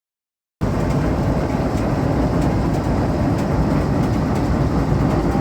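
Antique Champion upright leather sewing machine running on its belted shaft drive: a loud, steady mechanical clatter and rumble that cuts in abruptly under a second in, with faint repeated clicks.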